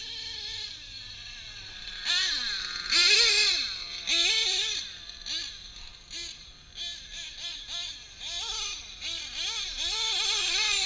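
Drag-modified Novarossi .28 nitro engine in a 1/7 truggy, revved up and down over and over as the truck is driven hard. The pitch rises and falls about once a second, with the loudest run about three seconds in.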